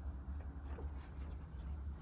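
Domestic pigeons making a few faint clicks and scuffs over a steady low hum.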